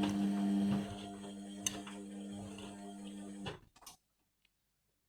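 Indesit washing machine humming steadily during start-up, then cutting out about three and a half seconds in, followed by a couple of faint clicks.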